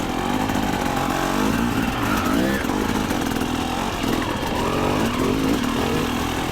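Two-stroke dirt bike engine running under a trail rider, its revs rising and falling over and over as the throttle is worked.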